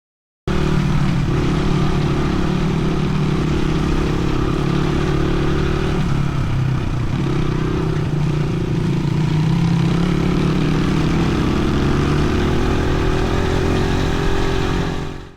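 Dirt bike engine running at a fairly steady speed while riding, starting suddenly and cutting off at the end.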